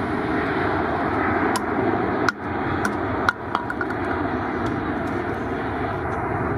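Jet aircraft engines running with a steady, even rush, and a few sharp clicks about two and three seconds in.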